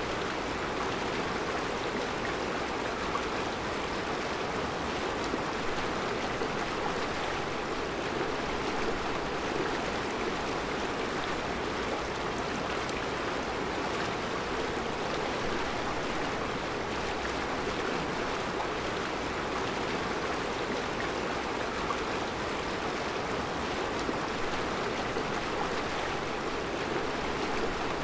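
Mountain river rushing steadily over round rocks in a rocky bed: an even, continuous rush of water.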